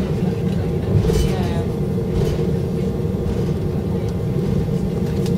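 Steady cabin rumble of an Airbus A319 taxiing with its engines at idle, with a steady hum. A brief clatter comes about a second in, and faint voices sit under the rumble.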